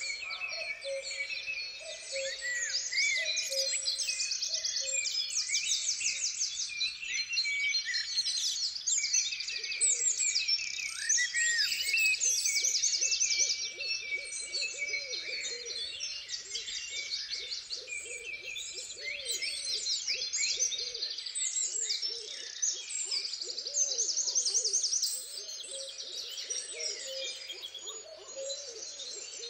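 A dense chorus of songbirds, many overlapping quick chirps, trills and whistles, with a bird's low repeated hooting calls underneath.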